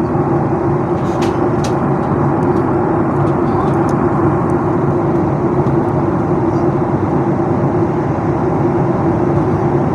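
Airliner cabin noise in flight: the steady rush of engines and airflow heard inside the passenger cabin, with a constant low hum.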